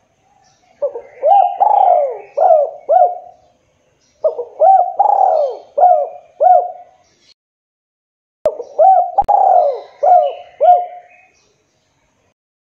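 Spotted dove (tekukur) cooing: three phrases of several short coos each, with pauses of about a second between them.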